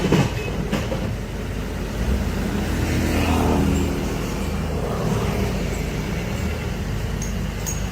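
Heavy diesel engine of earthmoving machinery running steadily under load, its pitch rising and easing off again about three seconds in, with a sharp knock at the very start.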